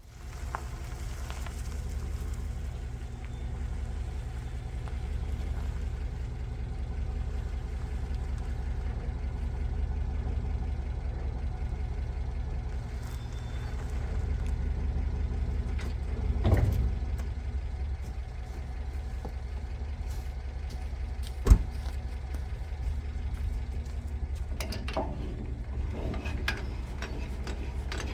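An engine running steadily with a low drone. Two knocks come in the second half.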